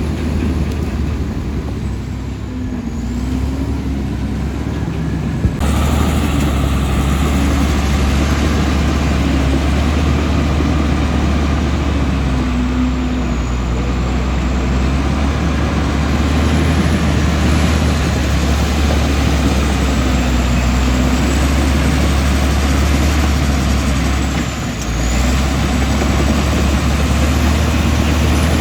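Komatsu D65E bulldozer's diesel engine running steadily. It gets suddenly louder about five or six seconds in, and it dips briefly near the end.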